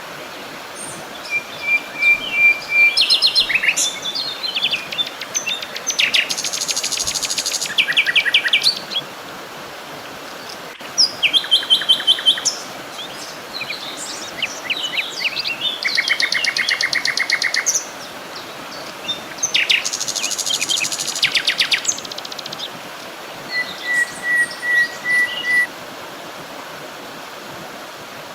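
Several songbirds singing: phrases of rapid trills and chirps come every few seconds, with a thin steady whistle twice, over a steady background hiss.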